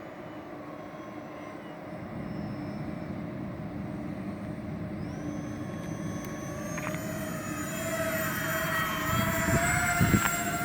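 Electric ducted fans of an RC model Airbus A330-600 airliner in flight, a steady whine that grows louder and rises in pitch from about halfway through. A single sharp knock comes near the end.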